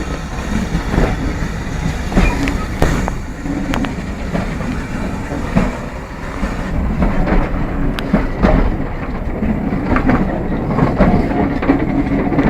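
A train hauled by BR pannier tank 5786 rolling along the track, its wheels clicking and knocking irregularly over the rails above a steady rumble.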